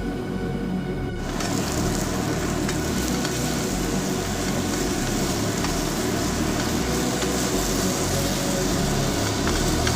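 Stir-fry sizzling in a hot pan, starting suddenly about a second in and going on steadily, with a few light clicks of stirring. Background music plays underneath.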